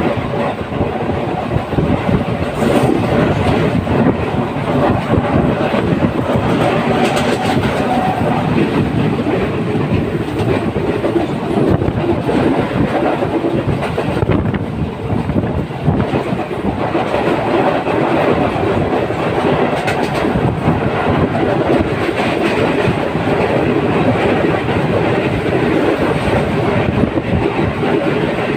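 Passenger train running along the track, heard from on board, its wheels rattling over the rail joints in a steady clickety-clack.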